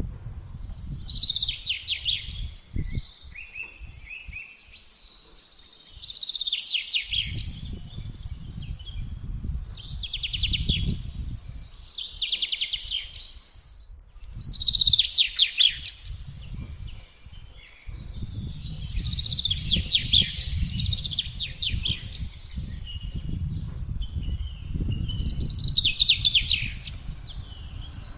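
Songbirds singing short phrases of rapid notes, repeated every two to three seconds, over gusty low wind noise that fades for a few seconds early on and returns.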